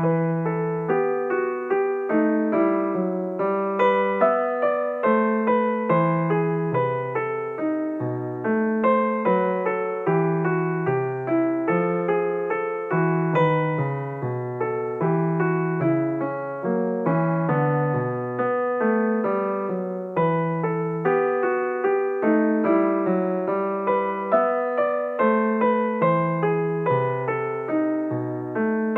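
Background piano music: a gentle, flowing run of sustained notes.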